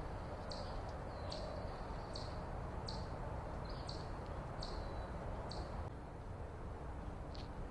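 A bird calling over and over: short, high notes that each sweep downward and trail off, a little under one a second, stopping about two seconds before the end. A steady low background noise runs underneath.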